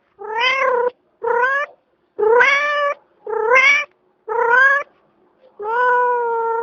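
An animal calling six times in a row, each call a pitched cry about half a second to a second long with a slight rise in pitch, the last call the longest and held level.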